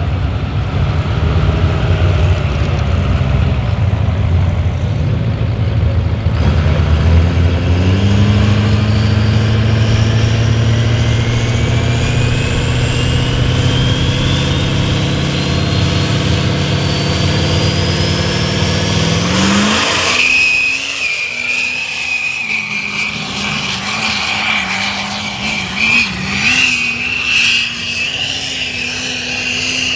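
Mega truck's diesel engine revving up with a turbo whistle rising steadily in pitch alongside it. About two-thirds of the way in there is a sudden loud rush, after which a steady high whistle holds over the engine at high revs.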